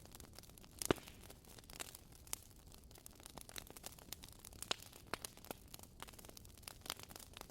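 Wood fire crackling, with irregular sharp pops and snaps over a faint hiss; the loudest pop comes about a second in.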